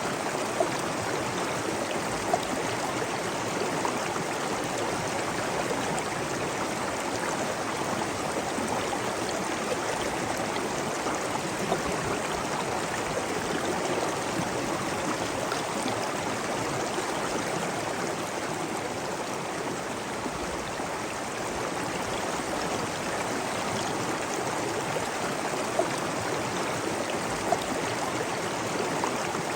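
Steady rush of flowing water, stream- or waterfall-like, unchanging throughout, with a few brief sharp drip or splash sounds standing out now and then.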